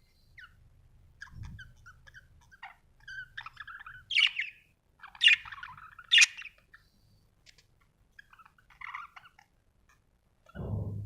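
Budgerigar chirping and warbling in short, scattered high calls, with three sharp, loud chirps around the middle. A brief low sound comes in near the end.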